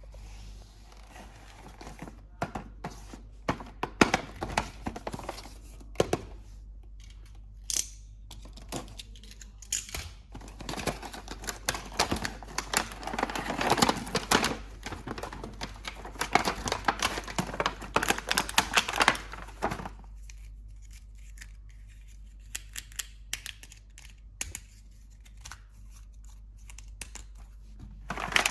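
Toy packaging being unpacked by hand: plastic and cardboard rustling and tearing, with many sharp clicks and taps, and a dense run of rustling through the middle.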